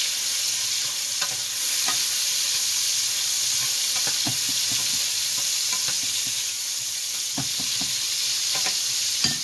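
Onions, tomatoes and garlic sizzling steadily in a frying pan while a wooden spoon stirs them, with scattered light knocks of the spoon against the pan and a sharper knock near the end.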